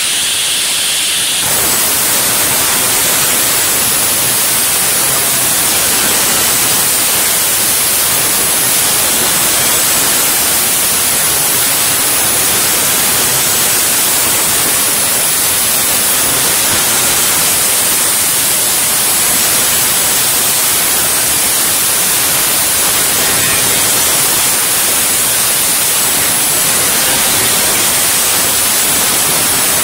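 A loud, steady hiss like radio static, even in level and without any rhythm or tone.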